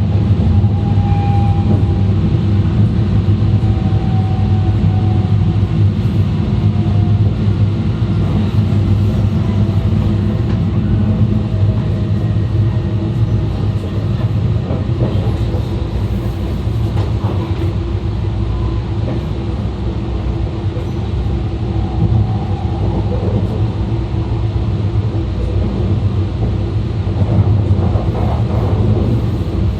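E2 series Shinkansen car running, heard from its vestibule: a steady loud rumble of wheels, track and car body, with faint whining tones that slide slightly down in the first few seconds.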